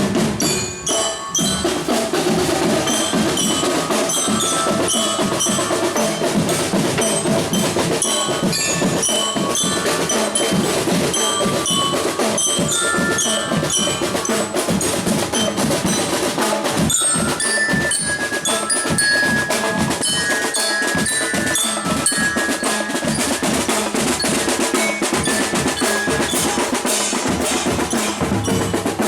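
A marching drum band playing: a busy beat of drums and percussion under a high, bright melody of mallet bells, the marching glockenspiel (bell lyra) of the band.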